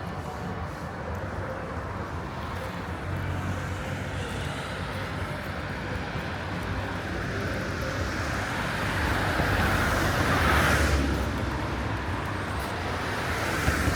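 A car passing: its road noise builds over several seconds, peaks about ten seconds in, then fades, over steady city traffic noise. A short tap near the end.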